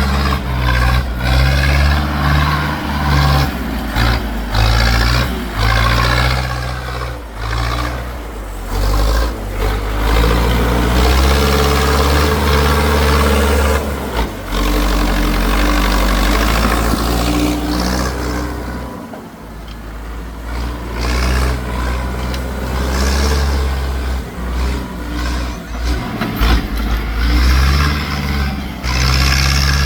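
Tractor engine running hard and revving, its pitch rising and falling repeatedly.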